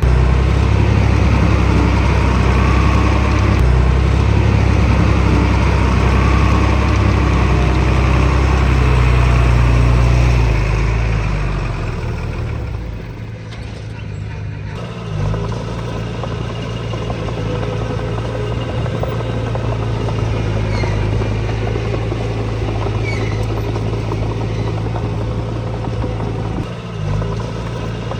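Diesel engine of heavy earthmoving machinery running under load, loud and low for about ten seconds, then easing off. After a break it carries on running steadily at a lower level.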